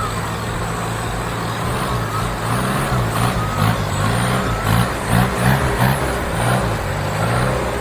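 Off-road 4x4's engine revving up and down under load, its pitch rising and falling again and again for several seconds as it works through an obstacle.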